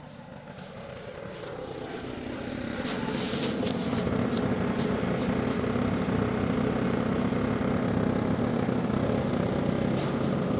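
An engine running, growing louder over the first few seconds as the machine comes closer, then holding steady, with a few light clicks and scrapes.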